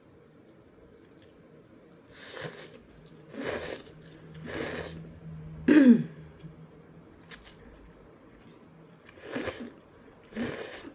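Ramen noodles being slurped in about six short, noisy slurps. The loudest, about six seconds in, has a falling vocal sound mixed into it.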